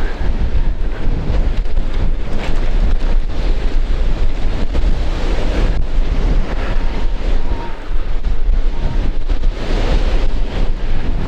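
Strong gusting wind buffeting the action camera's microphone, a loud, unsteady low rumble.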